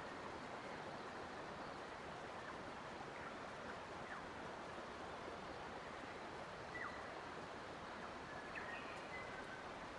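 Forest ambience: a steady rushing hiss, like running water or wind in leaves, with faint, brief bird chirps scattered through and a few short whistles near the end.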